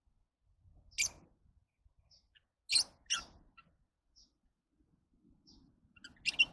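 Lovebirds giving short, sharp, high-pitched squeaking calls: one about a second in, two close together near three seconds, and a quick double call near the end, with faint short chirps in between.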